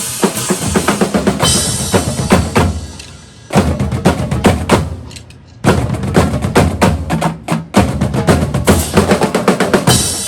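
Drum kit and marching drumline playing together: dense snare and bass drum hits. Twice, about three and five seconds in, the playing drops away briefly before a loud hit brings it back in.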